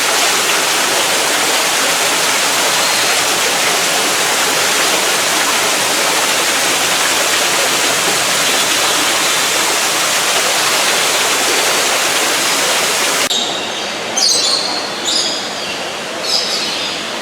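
Steady rushing water, like a waterfall, that cuts off abruptly about 13 seconds in. It gives way to a few short, high bird calls.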